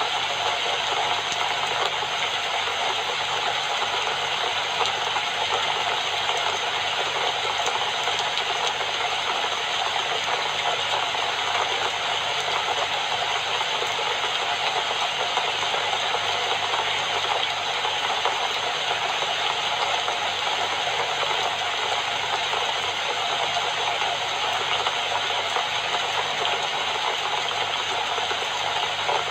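Steady rain falling, an even hiss with no let-up or change.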